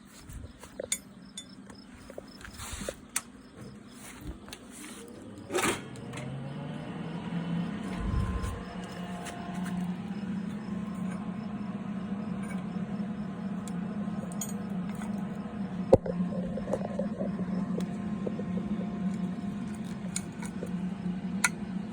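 Clinks and rattles of metal tools being handled, then a small electric motor spinning up with a rising whine about five seconds in and running on with a steady hum.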